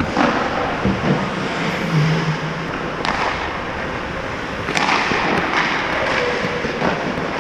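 Ice hockey play on the rink: skate blades scraping the ice under a steady noisy haze, with two sharp knocks of stick or puck, about three seconds in and again near the five-second mark.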